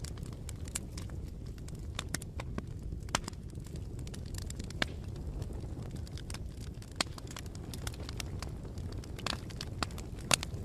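Bonfire burning: a steady low rumble with irregular sharp pops and snaps of the burning wood, the loudest pop just before the end.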